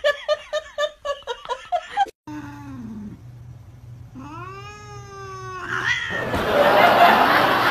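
A quick run of short, high laughs, then a cat's short low moan, a long yowl that rises and falls, and a loud hiss as the white cat leaps back. The hissing cat is warning off another cat from its bed.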